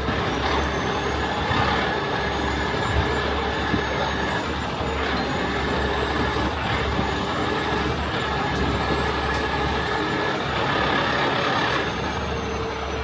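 A heavy rotator tow truck's diesel engine running at raised revs to drive its hydraulics, a steady engine hum with a steady whine over it, easing off near the end.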